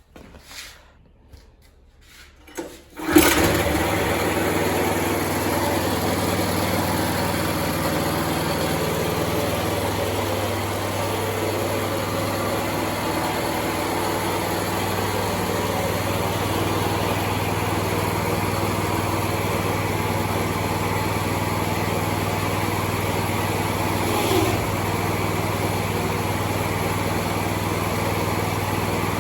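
Small new petrol engine of a newly assembled excavator starts suddenly about three seconds in and then runs steadily on its first run, with one brief bump in the sound near the end.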